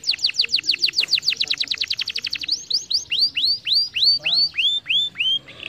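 Domestic canary singing. It opens with a fast trill of repeated falling whistled notes, about ten a second, and about halfway through it changes to slower, lower swooping notes, roughly two a second.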